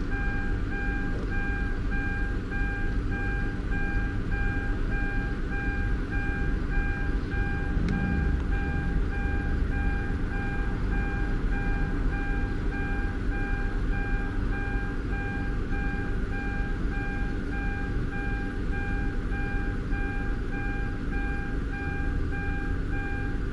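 Kia Amanti V6 engine idling steadily, with the car's warning chime beeping rapidly and evenly over it without a break.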